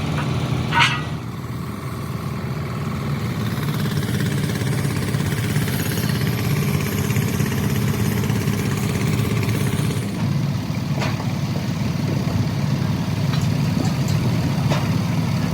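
An engine running steadily at idle, with a brief high squeal about a second in and a few light clicks later on.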